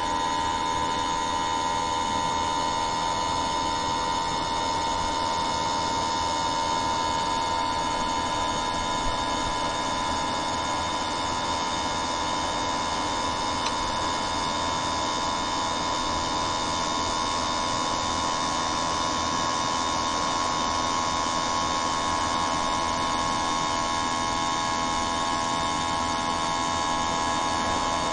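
A steady hum with a constant high whine, unchanging in pitch and level.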